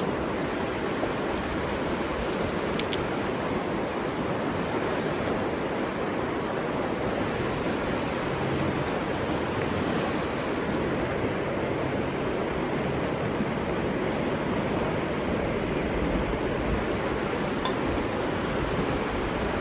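River water rushing steadily, with one brief sharp click about three seconds in.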